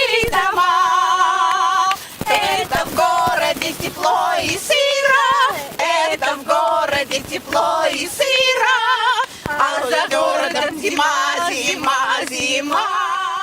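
Women's voices singing together in phrases, with wide vibrato on long held notes and short breaks between phrases.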